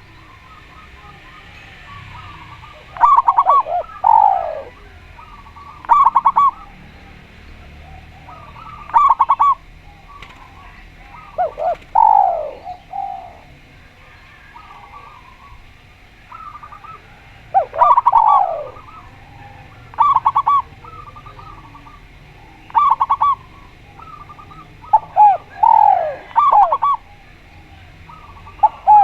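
Doves cooing, a spotted dove (tekukur) and a zebra dove (perkutut), in repeated bouts a few seconds apart. Each bout is a quick run of stuttering notes followed by drawn-out coos that slide down in pitch.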